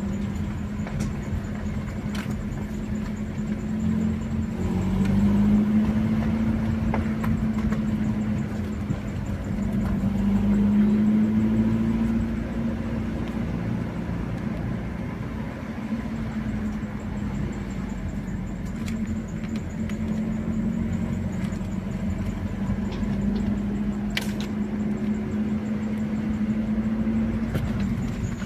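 Car engine running while driving, with a low road rumble. The engine note rises and grows louder twice in the first half as the revs go up, then settles back to a steady pitch.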